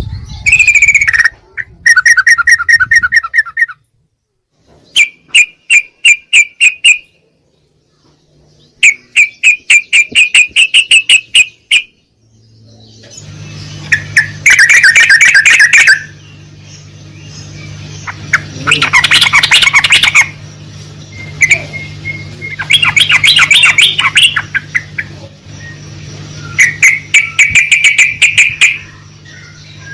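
Yellow-vented bulbul (trucukan) singing: repeated phrases of fast, rapidly pulsed notes, each lasting one to three seconds with short pauses between. A low steady hum comes in underneath about thirteen seconds in.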